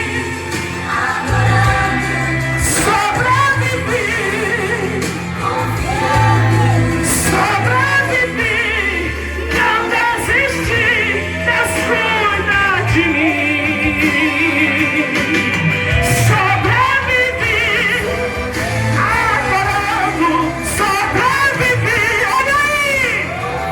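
Live gospel worship music: a female singer singing over a band with steady bass notes and drums.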